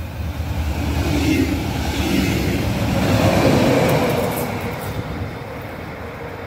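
Red double-deck regional passenger train passing close by at speed, with an electric locomotive pushing at the rear. The rumble of wheels on rail builds, peaks as the locomotive goes by about three to four seconds in, then fades as the train draws away.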